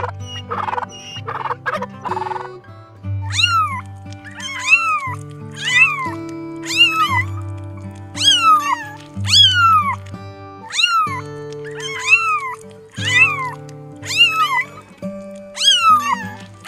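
A turkey gobbling briefly, then a cat meowing over and over, about once a second, each meow rising and then falling in pitch, over background music.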